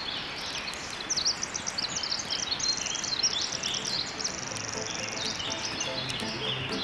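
Forest bird chorus: several songbirds chirping and trilling, including one long, fast, even trill about four seconds in, over a steady background hiss.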